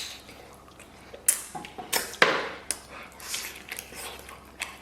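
Wet eating sounds: biting and chewing braised pig trotter, with a few sharp, sticky smacks and clicks.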